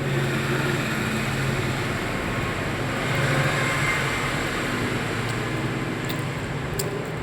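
Steady rumbling noise of a moving vehicle, even throughout, with a faint low hum.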